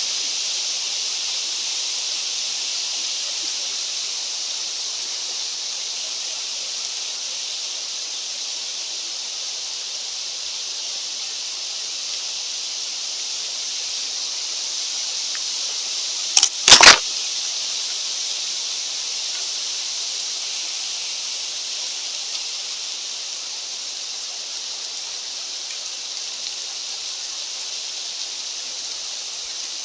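Steady hiss of mountain wind. About halfway through there is a short click, then a much louder sharp snap.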